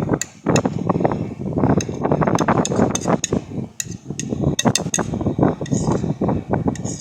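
Repeated clinks and taps of a feeding spoon against a bowl or tray, over rustling handling noise.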